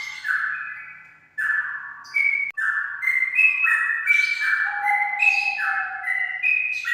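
Straw-headed bulbul (cucak rawa) singing: a fast run of loud, clear notes in quick phrases. There is a brief break about a second and a half in.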